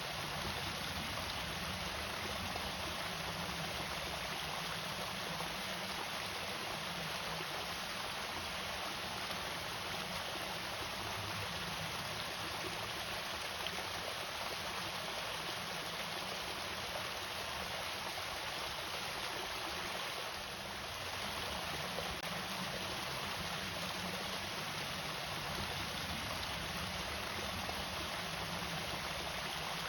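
Small waterfall on an irrigation channel, water falling and splashing in a steady, even rush.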